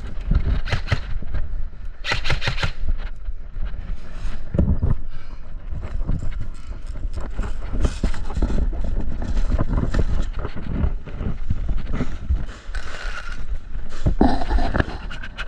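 Irregular knocks, clicks and scuffs at an uneven pace over a constant low rumble of wind and handling on a body-worn action-camera microphone.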